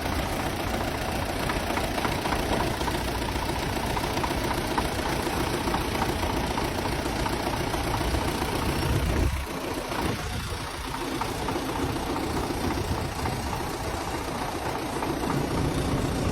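MTZ tractor engine running during a start from its pony starter engine, with a loud knocking rattle. About nine seconds in the sound drops abruptly and changes, then runs more steadily and builds up again near the end.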